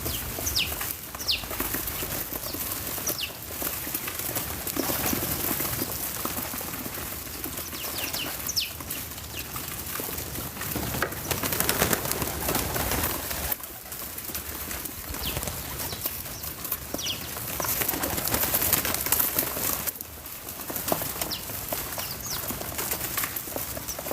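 Backyard birds calling, with short high chirps scattered throughout over steady outdoor background noise.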